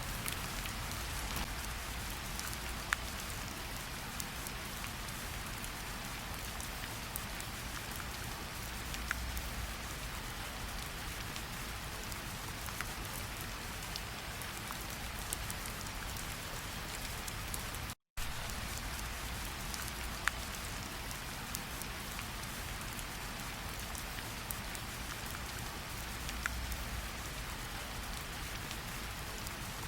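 Steady tropical rainfall, with scattered single drops ticking close by. The sound cuts out to silence for an instant about two-thirds of the way through.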